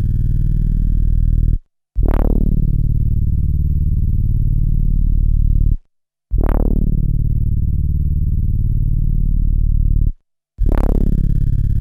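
An SP1200 sampler playing back a long, low synth-bass sample, struck again and again. A new note starts three times, each with a quick falling sweep at the attack and lasting about four seconds, with brief silences between them.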